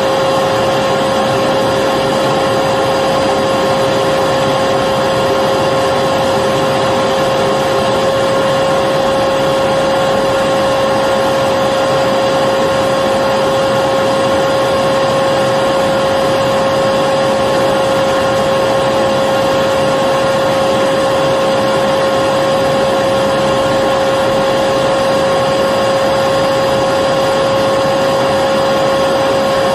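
Electric vacuum cleaner running continuously: a steady rush of air with a constant whine at one pitch, unchanging throughout.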